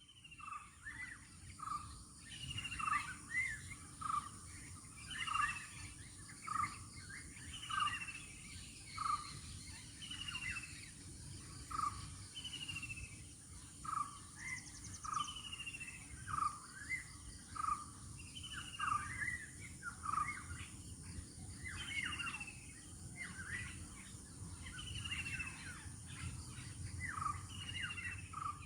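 Birds calling in a morning chorus: short calls repeat about every second and a half, with a higher falling note every two to three seconds.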